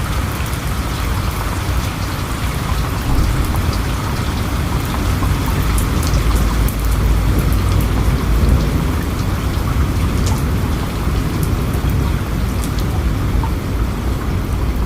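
Steady heavy rain, with individual drops ticking sharply over the hiss and a low rumble underneath.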